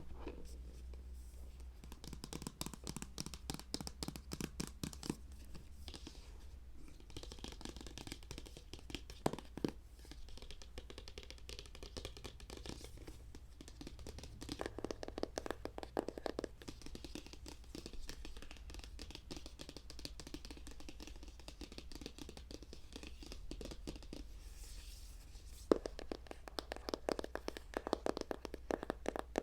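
Close-up crinkling and scratching of ASMR trigger objects being handled, coming in bursts of fine crackles, with a sharper tap or two along the way.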